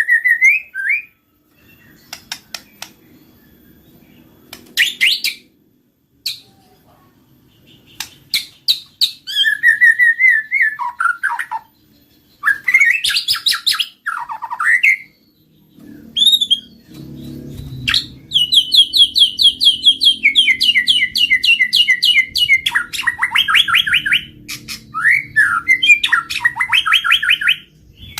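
White-rumped shama singing a varied song of clear whistles, up- and down-sweeping notes and fast repeated trills, in phrases broken by short pauses. The song is loudest and most continuous in the second half, over a faint low rumble.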